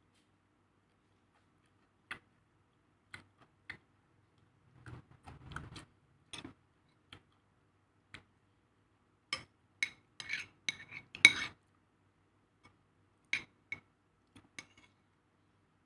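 Cutlery clinking and scraping against a plate: scattered sharp clinks, with a quick run of them in the second half where the loudest one falls.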